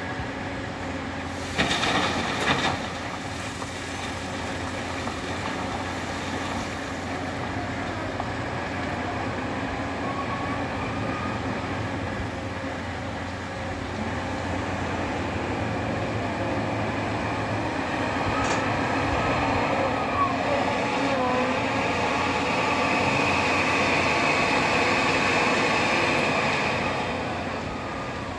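Scania 164 580 V8 truck running: a steady engine and road rumble with rattles, a short clattering knock about two seconds in, and the sound growing louder over the second half.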